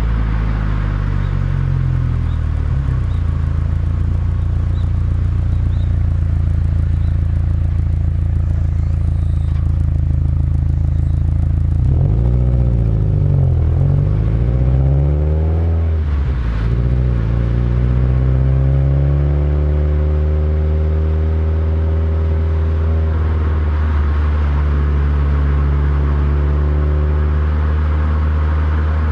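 Subaru WRX STI's turbocharged flat-four engine and exhaust running while driving, picked up by a microphone outside the car. About halfway through, the engine note drops and climbs back twice, then holds steady.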